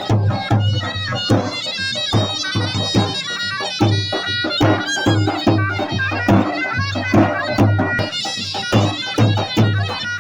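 Zurna and dahol playing dance music: a shrill double-reed melody over a steady low drum beat.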